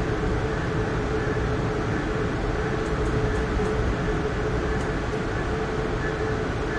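Steady running noise of an Amtrak Keystone passenger train, with a constant mid-pitched hum over a low rumble.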